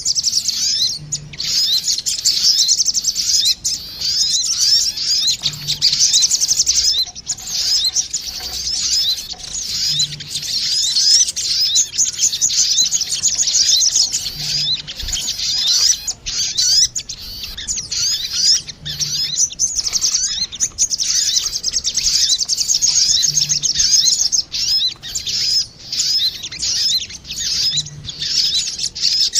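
Male and female sogon birds calling back and forth in a bird-lure recording: a dense, unbroken stream of rapid high chirps and twitters.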